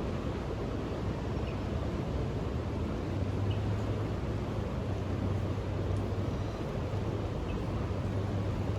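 Steady outdoor background rumble with a low hum that grows stronger about three seconds in.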